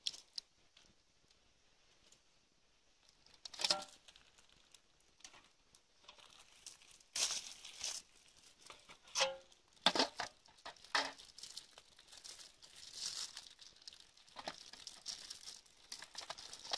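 Crinkly material being crumpled and torn by hand in irregular bursts of rustling, the busiest stretch coming in the second half.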